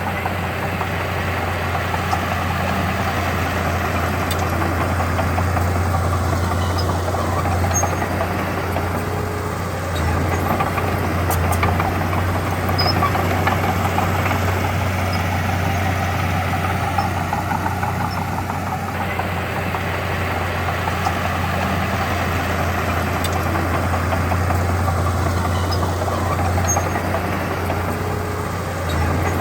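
Diesel engine of heavy earthmoving equipment running steadily with a deep low hum, its level easing and swelling slightly a few times.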